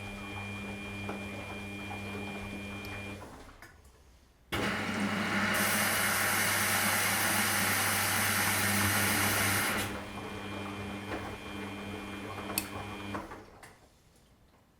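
Washing machine running with a steady motor hum, which fades out about three seconds in. At about four and a half seconds a loud rushing hiss starts abruptly over the hum and lasts about five seconds. The hum then continues alone, with one sharp click, and fades out near the end.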